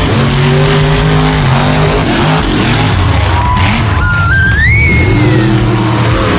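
Monster truck engines revving hard, their pitch climbing and dropping again and again. About halfway through, a high whistling tone rises in steps, then fades.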